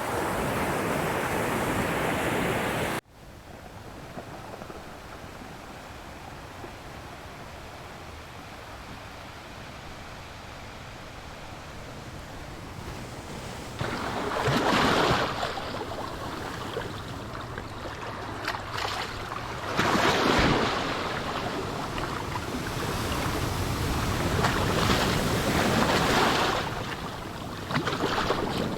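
Ocean waves washing and breaking on a shore. A loud, even wash cuts off abruptly about three seconds in, giving way to a quieter one, and then separate waves swell and break about halfway through, again a few seconds later, and in a longer surge near the end.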